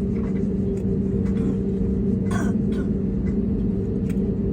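Airbus A321neo cabin noise: a steady engine drone and rumble with a constant hum. A brief knock or clatter sounds about two and a half seconds in.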